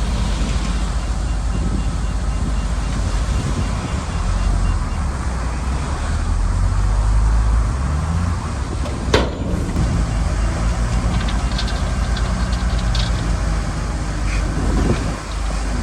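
Shantui bulldozer's diesel engine running steadily, its pitch climbing briefly a few seconds in. There is one sharp click about nine seconds in, and short high squeaks come a little later.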